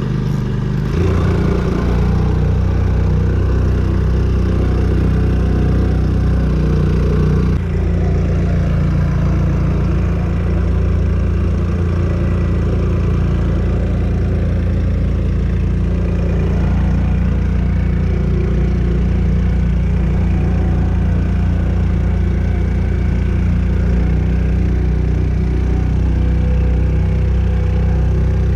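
Hangkai 4 hp air-cooled four-stroke outboard motor running steadily during its break-in, with a slight change in its note about a second in and again near eight seconds.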